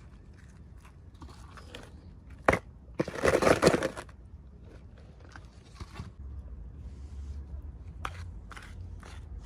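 Packaging being handled during an unboxing: a sharp snap about two and a half seconds in, then about a second of loud crinkling, with smaller clicks and rustles around it.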